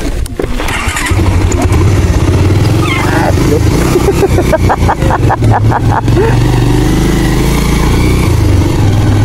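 Motorcycle engine running while riding over a rough off-road track, with a quick run of rattling knocks about five seconds in.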